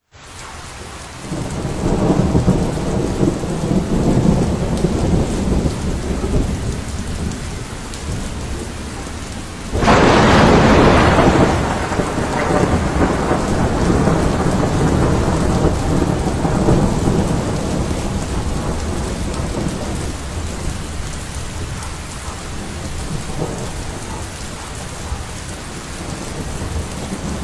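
Thunderstorm: rolling thunder over rain. A sharp, loud thunderclap breaks about ten seconds in and rumbles away slowly.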